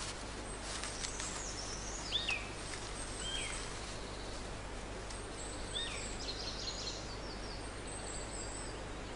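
Forest ambience with birds calling: three short curved whistled calls about two, three and six seconds in, and bursts of high thin chirps over a steady background hiss.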